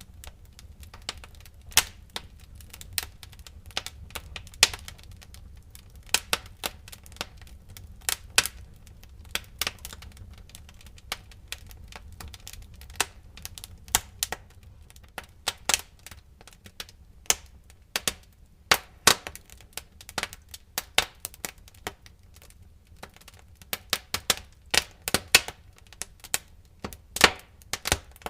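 Wood fire crackling in a fireplace: irregular sharp snaps and pops, bunching closer together near the end, over a low steady rumble.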